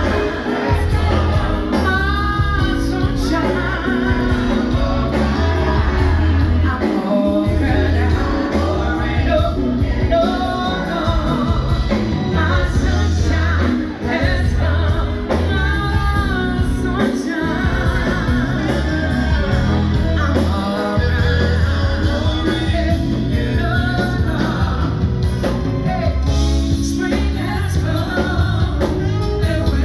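Live band performance: a woman singing a slow soul ballad over bass, drums and keyboards.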